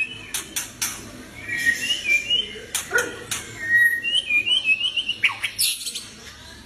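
White-rumped shama singing a whistled phrase of quick, bright rising notes, twice, mixed with sharp clicks and a short falling call near the end.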